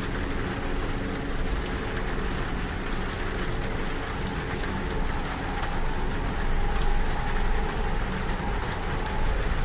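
Rain pattering on a train window over the steady low rumble of a moving train, with scattered drop ticks.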